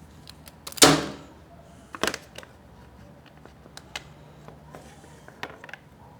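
Scattered sharp clicks and knocks of hand tools and small metal parts while the two Allen screws are taken out and the motorcycle's chain guard is removed. The loudest knock, about a second in, rings briefly.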